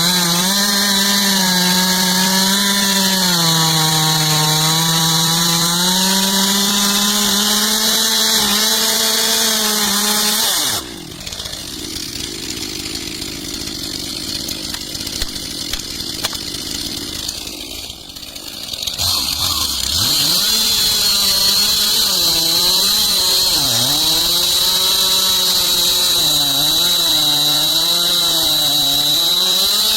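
Two-stroke chainsaw running at high revs while cutting, its pitch wavering as the bar is loaded. About eleven seconds in it drops abruptly to a quieter, rougher sound for several seconds, then comes back up to full revs, with the pitch dipping again and again as it cuts.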